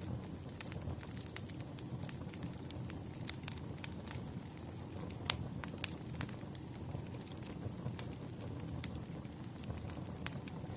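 Wood fire crackling: irregular sharp pops and snaps over a steady low rumble, the loudest pop about five seconds in.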